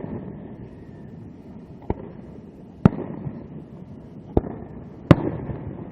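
Aerial fireworks bursting: four sharp bangs a second or so apart, the last the loudest, each trailing off in a rumble.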